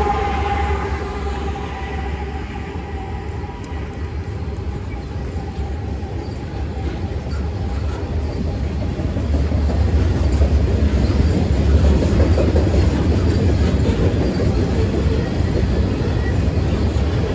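Canadian Pacific freight train led by GE ES44AC diesel locomotives passing at speed. The last of a horn blast fades out in the first second, then the low engine rumble and the wheels on the rails build louder past the halfway mark.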